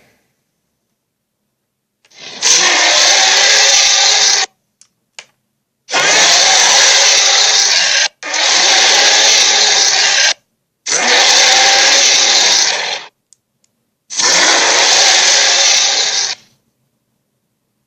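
Dragon roar sound effects: five harsh, rasping roars of about two seconds each, separated by short silences, with two faint clicks between the first and second.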